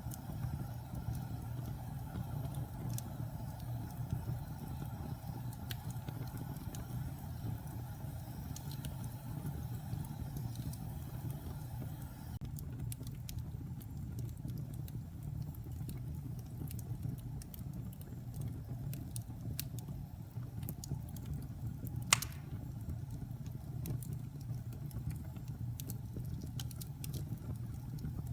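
Wood fire burning in a fireplace: a steady low rumble with scattered small crackles and one sharp pop about 22 seconds in.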